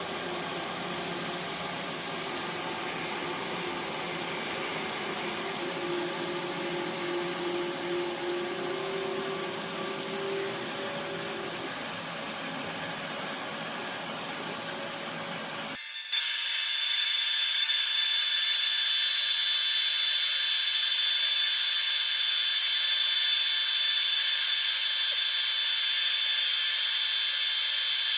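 Woodworking power tools running steadily. A little over halfway through the sound cuts abruptly to a different, higher, thinner whine with steady piercing tones.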